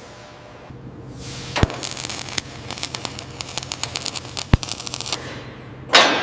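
Metalwork on a sheet-metal patch: dense, irregular sharp clicks and cracks with two louder snaps, ending in a sudden hissing burst that fades away.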